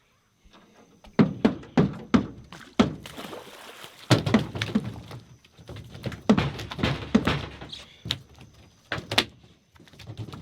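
A dozen or so irregular hollow thumps and knocks on the boat, some in quick pairs, beginning about a second in.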